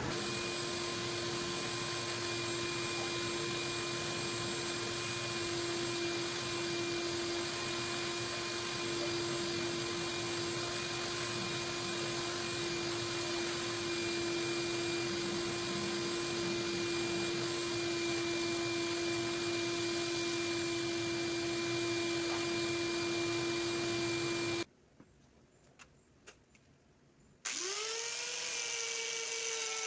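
An electric power-tool motor running at a steady whine. It cuts off abruptly near the end, and after a short gap a motor starts and spins quickly up to speed.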